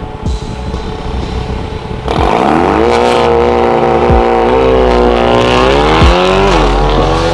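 Mercedes-AMG A35's turbocharged four-cylinder, breathing through a Fi valvetronic cat-back exhaust with a catless downpipe, rumbling low and then accelerating hard about two seconds in. The note rises sharply and holds loud, with small dips. A deep thump comes about every two seconds.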